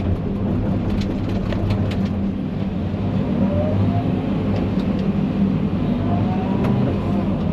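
Heavy equipment engine running steadily with an even low drone. Two faint rising whines come in, one about three and a half seconds in and one near the end.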